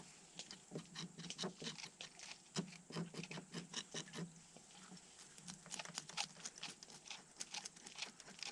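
Knife scraping scales off fresh-caught fish: quick, irregular scratching strokes, several a second.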